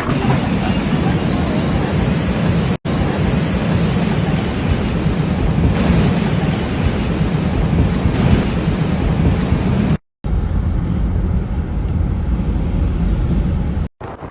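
Strong wind blowing over the microphone: a loud, steady rushing roar, cut off briefly three times where the footage changes.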